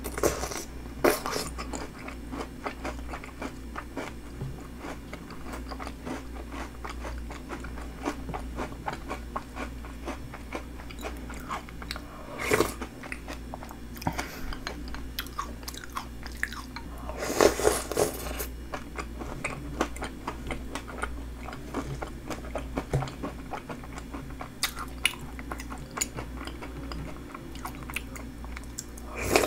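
Close-miked chewing and crunching of cereal snacks and round cream puffs softened in milk and shaved ice, eaten by the spoonful, with many small clicks over a steady low hum. A louder burst comes about twelve seconds in, and a longer one around seventeen to eighteen seconds.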